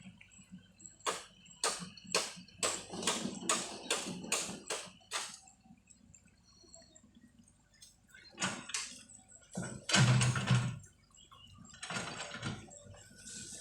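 A run of about nine sharp knocks, roughly two a second, then a few louder, longer crashes, the loudest about ten seconds in.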